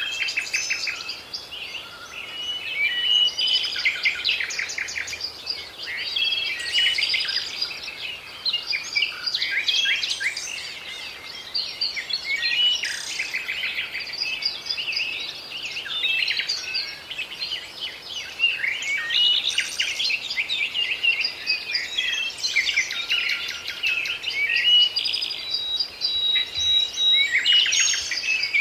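Several birds singing and calling at once: a continuous mix of chirps, trills and rapid runs of high notes overlapping one another.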